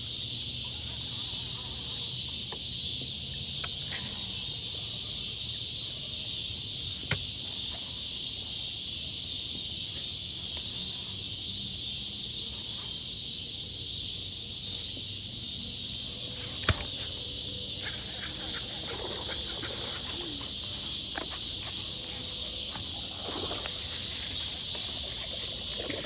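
Steady high-pitched chorus of insects, unbroken throughout, with two sharp single clicks about a third and two thirds of the way through.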